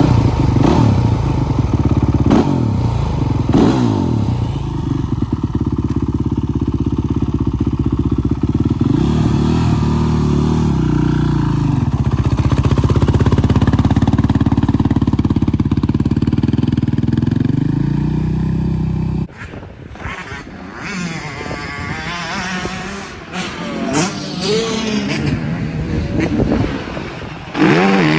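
Yamaha YFZ sport quad's engine pulling hard on a motocross track, its pitch rising and falling as the rider accelerates and shifts. After a sudden cut about two-thirds of the way through, the engine is heard quieter, its revs rising and falling.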